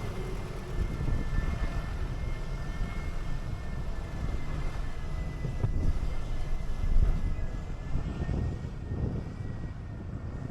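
City bus running along a road: a continuous low engine and road rumble with a faint steady high whine over it.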